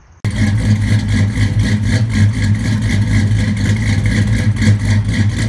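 Loud car engine running steadily with an even exhaust pulse, cutting in abruptly just after the start.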